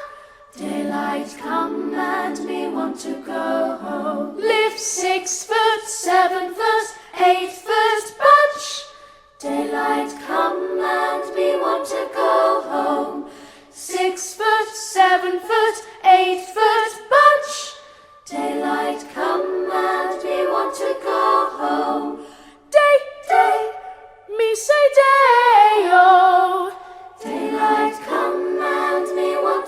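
Several voices singing a cappella in harmony, in phrases of about four seconds with short breaks between them.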